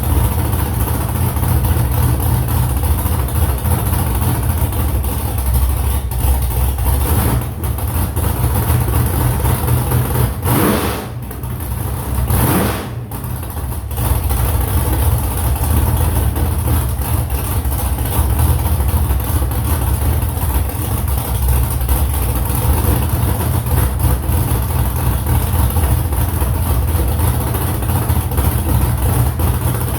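Freshly built car engine running steadily. The sound dips and wavers for a couple of seconds about eleven seconds in, then settles back to the same level.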